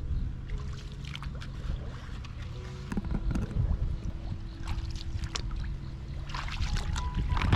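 Water sloshing and splashing, with scattered sharp splashes over a low rumble, as fish are caught by hand in shallow lake water.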